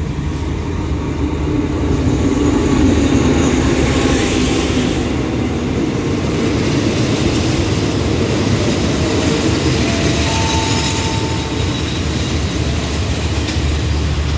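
Passenger train pulling into a station: the diesel locomotive passes close by, then the coaches roll past with a steady heavy rumble that builds over the first few seconds as the train slows to stop. A brief squeal of wheels or brakes comes about ten seconds in.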